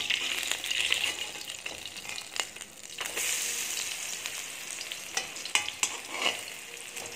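Fritters sizzling in shallow oil in a metal kadai, with a perforated metal spatula scraping and clicking against the pan a few times as they are turned. The sizzle swells about three seconds in.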